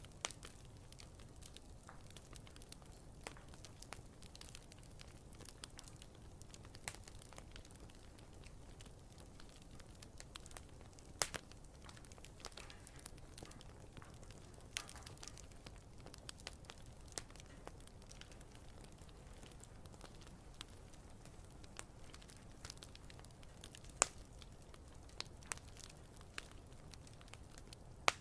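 Wood campfire crackling, with irregular small snaps over a low steady rumble of the flames and two louder pops, about eleven seconds in and near the end.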